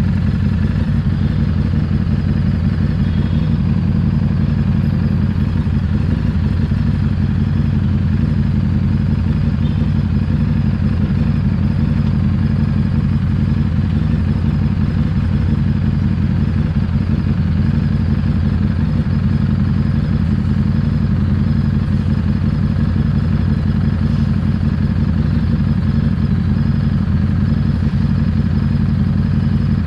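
Harley-Davidson Street 750's liquid-cooled V-twin engine running steadily at an even pitch, with no revving or gear changes.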